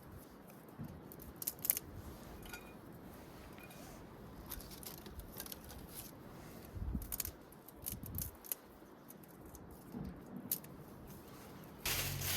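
Small dry twigs being snapped and dropped into a small wood-burning stove: scattered sharp cracks and clicks with a few soft knocks. Near the end a loud, steady rushing noise sets in.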